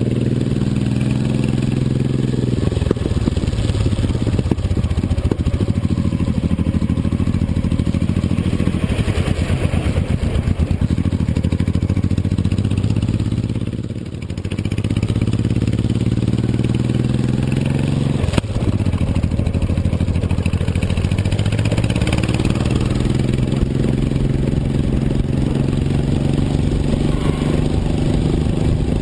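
Motorcycle engine running under way, its pitch climbing and dropping again and again as it accelerates and shifts. It eases off briefly about halfway through, then pulls again; a single sharp click comes about two-thirds of the way in.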